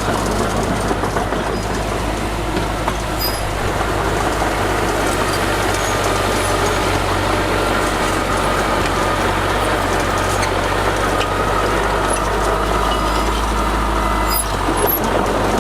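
Heavy diesel earthmoving machinery running steadily, its engine working at a constant pitch with a continuous mechanical rattle.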